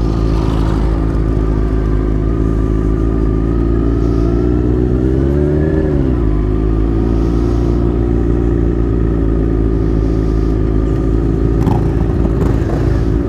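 Motorcycle engine running at a steady pitch, rising briefly about five seconds in and dropping back about a second later.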